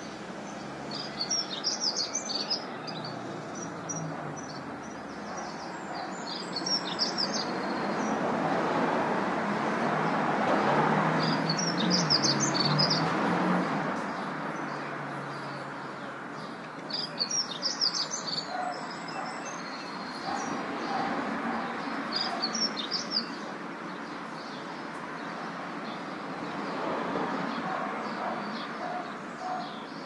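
Small bird chirping in short bursts, five times, about every five seconds. Behind it is a rushing wind-and-city background that swells and eases.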